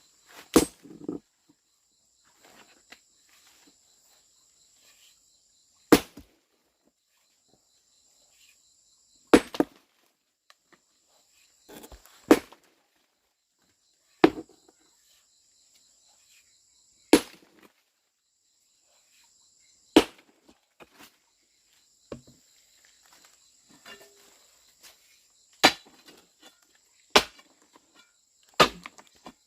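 About ten sharp, single strikes of a hand tool on a hard material, coming unevenly every two to six seconds, over a steady high chirring of insects.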